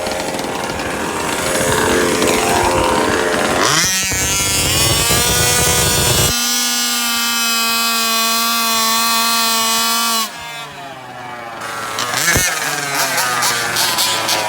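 Small two-stroke engine of a gas-powered large-scale RC car revving up about four seconds in and holding a steady high-pitched scream for about four seconds. The throttle then cuts off sharply and the engine drops back to lower, uneven running, with a quick blip near the end.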